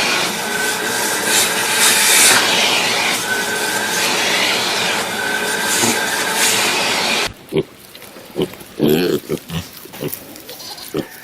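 A loud, harsh continuous noise with a short high note recurring about every two seconds. After an abrupt cut about seven seconds in, a pig grunts in a series of short, separate grunts.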